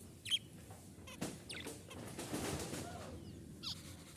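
Several pet budgerigars chirping: short, sharp calls at irregular intervals, the loudest about a third of a second in, with a noisier, scratchier stretch in the middle.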